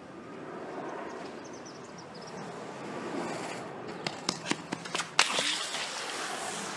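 Outdoor street air with light wind on the microphone, then a quick run of sharp clacks about four seconds in: a skateboard hitting and tumbling across asphalt as its rider falls off.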